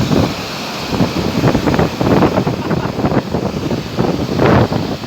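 Rain falling in a steady hiss, with wind buffeting the microphone in irregular low gusts that are the loudest part.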